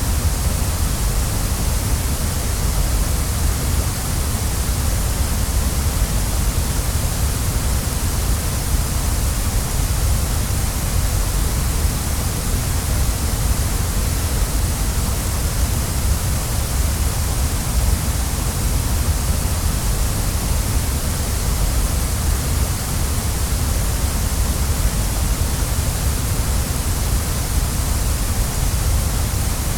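Waterfall: water falling and rushing in a steady, unbroken roar, with a deep rumble beneath a bright hiss.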